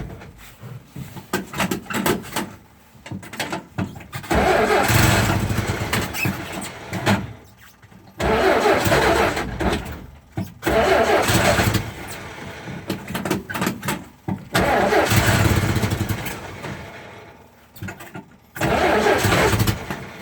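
1949 Jeep's engine being cranked on a cold start in about five bursts of two to three seconds each, with quieter pauses between tries; it does not stay running.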